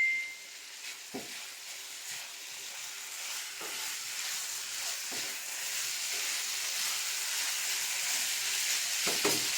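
Spaghetti and minced chicken sizzling in a medium frying pan, the hiss growing louder as the heat is turned up, with a few light knocks of the utensil stirring the pasta. A short beep right at the start.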